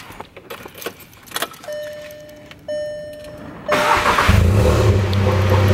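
Clicks and rustling, then two short dashboard chime tones. About four seconds in, a Mk7 Volkswagen Golf's turbocharged four-cylinder engine cranks and catches, then settles into a steady idle. It runs through a newly fitted Armytrix valved exhaust with the valves closed, which makes it much quieter.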